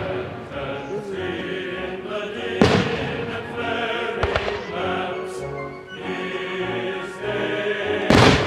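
Choral music with sustained sung tones, over fireworks going off: a sharp bang about three seconds in, a smaller crack a little later, and another loud bang near the end.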